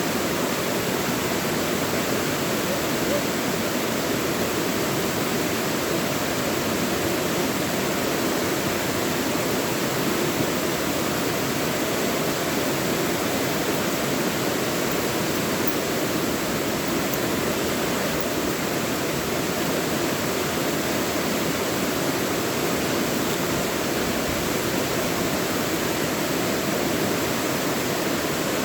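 Mountain stream rushing over rocks in a deep valley, a steady full splashing with no break or change.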